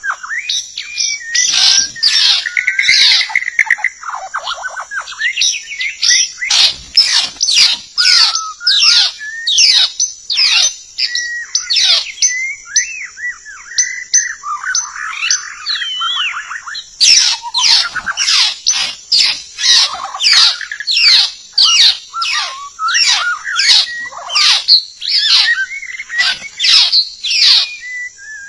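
White-rumped shama (murai batu) singing a loud, rapid, varied song of whistles, sweeping notes and trills, with short pauses. A steady high hiss runs underneath.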